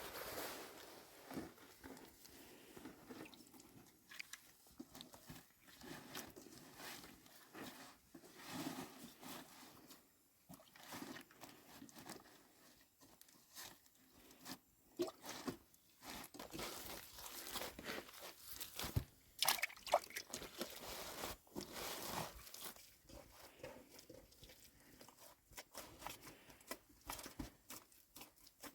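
Irregular crunching and clicking: a run of short handling noises of uneven spacing with quiet gaps between, loudest in a cluster about two-thirds of the way through.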